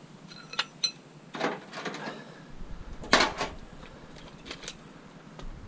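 Pieces of steel scrap clinking and clanking as they are handled and dropped: a handful of separate knocks, the loudest about three seconds in.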